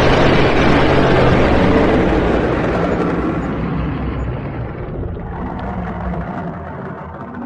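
Dragon sound effect: a loud, deep rumbling roar with a rushing hiss over it, strongest at first and fading slowly over several seconds.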